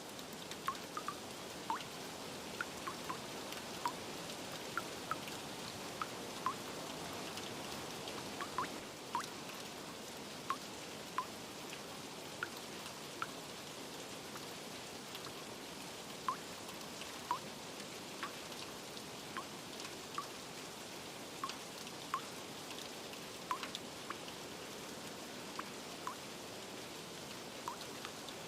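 Steady rain with frequent, irregular water drips plinking, several each second.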